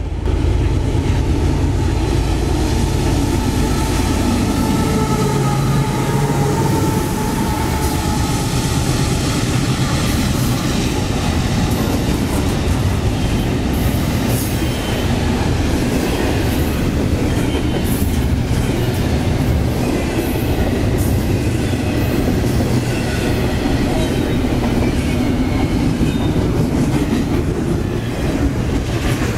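CSX freight trains passing close by, autorack cars and then double-stack intermodal well cars: steel wheels rumbling and clacking over the rail joints, loud and steady, with thin wavering squeals from the wheels now and then.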